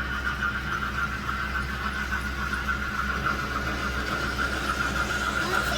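Model train running on the layout: a steady high-pitched tone that wavers slightly, over a low steady hum.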